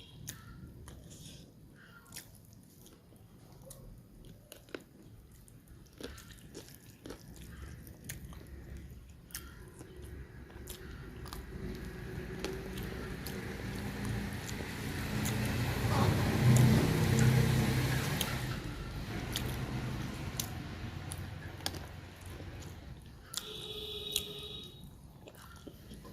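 Close-miked eating sounds: a person chewing and biting food, with many sharp smacks and clicks. A low rumble swells up and fades away in the middle, the loudest part.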